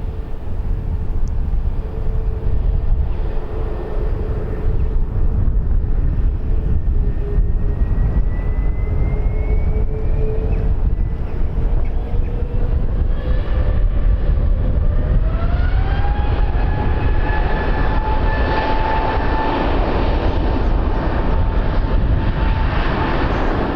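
Aircraft engines running over a steady heavy rumble. About two-thirds of the way through, a whine climbs in pitch and then holds at the higher note, as the engines spool up.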